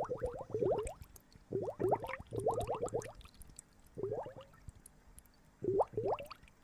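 Water gurgling and bubbling in short bursts of quick rising blips, several per burst. The bursts come four times with pauses between them.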